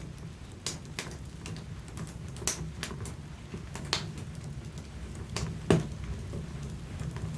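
Wood fire burning in an open fireplace: a steady low rush of flames with irregular sharp crackles and pops from the logs, one louder pop about two-thirds of the way through.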